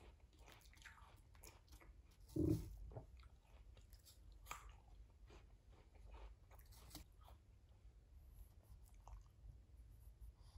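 Quiet close-up chewing and biting of cut fruit, with small clicks of a metal fork against a ceramic bowl and one louder thump about two and a half seconds in.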